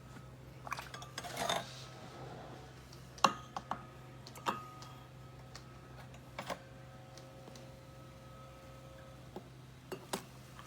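Scattered clinks and knocks of cups, utensils and machine parts being handled, over a low steady hum: a cluster in the first second or two, a few sharp knocks around three to four and a half seconds in, and more near the end.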